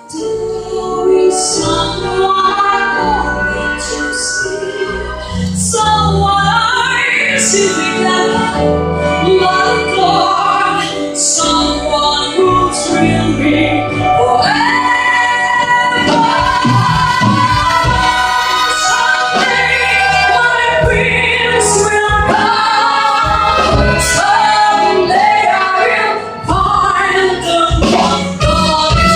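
Live band music with a singer's voice carrying the melody over a bass line and repeated cymbal-like hits.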